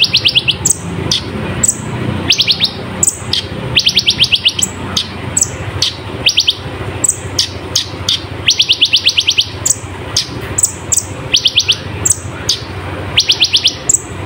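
Kolibri ninja (konin) sunbird singing loudly: quick trilled runs of evenly spaced high notes, each run under a second long, coming every second or two, mixed with short sharp chirps. A faint low hum lies underneath.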